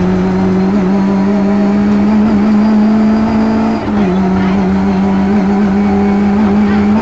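Rally car engine under hard acceleration, heard from inside the cabin, running at high steady revs. About four seconds in there is a brief drop in revs, then it pulls again.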